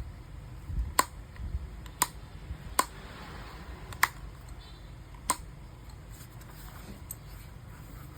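Five sharp clicks in the first five seconds, roughly a second apart, over a low rumble.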